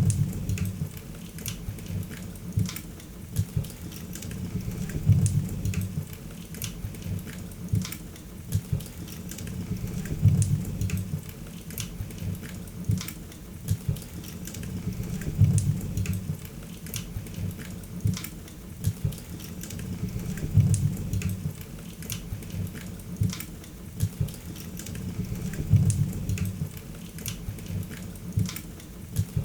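Wood fire crackling, with many sharp pops and snaps over a low rumble that swells about every five seconds.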